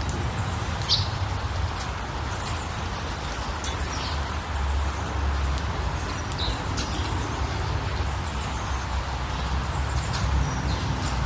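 Small birds chirping in short, scattered calls over a steady background hiss and low rumble.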